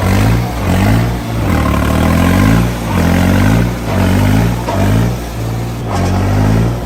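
Tractor diesel engine revving up and easing off again and again, about once a second.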